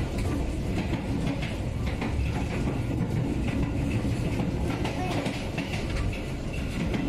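Passenger train carriage running along the line: a steady low rumble, with the wheels clicking over the rail joints.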